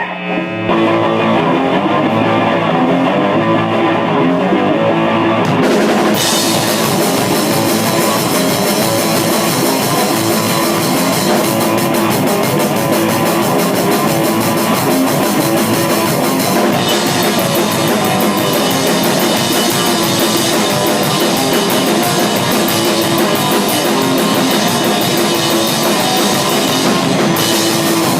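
Loud rock band jamming, with drum kit and electric guitar. The cymbals and high end come in about six seconds in, and more cymbal wash comes in at about seventeen seconds.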